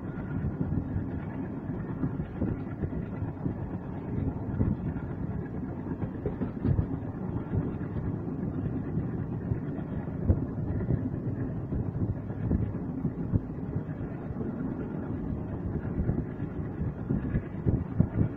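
A moving train heard from inside the coach: a steady rumble of wheels running on the track, with uneven clacks and knocks over the rails.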